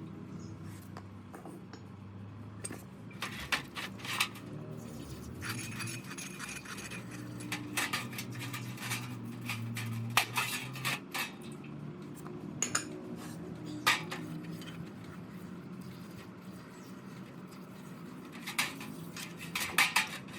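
Small metal parts clinking and tapping as they are handled, in scattered sharp clicks, over a low steady hum.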